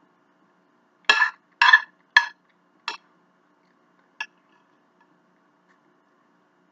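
Bowls clinking as they are set down and stacked: five short clinks within the first four seconds or so, the last one lighter.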